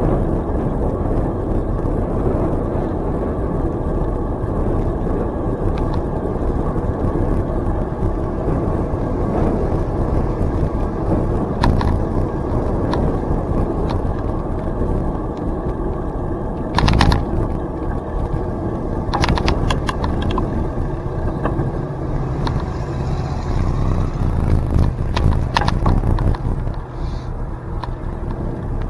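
Steady rush of wind and tyre noise from a bicycle being ridden along a trail, with a few sharp clicks and rattles in the second half.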